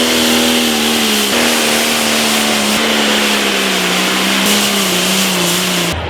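Limited pro stock pulling tractor's turbocharged diesel engine running hard at high revs with a turbo whine, its pitch dropping in several steps as it works under load. The sound cuts off abruptly near the end.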